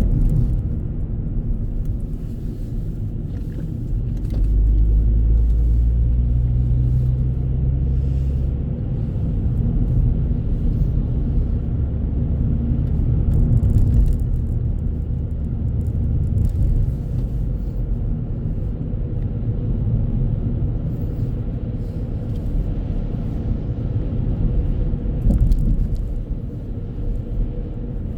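Steady low rumble of a vehicle on the move, swelling louder from about four to nine seconds in.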